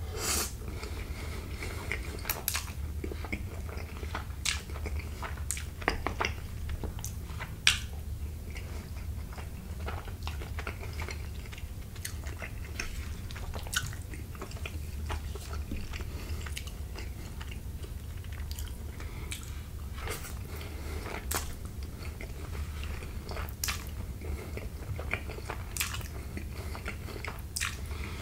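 Close-miked eating of creamy fettuccine alfredo: chewing with wet mouth smacks and sharp clicks at irregular intervals.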